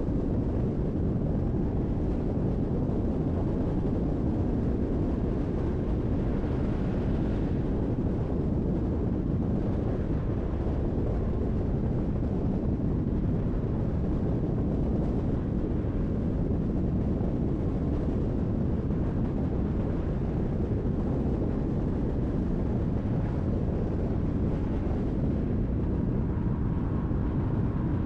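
Car driving at speed on a highway: a steady low rumble of tyre and road noise with engine drone, unchanging throughout.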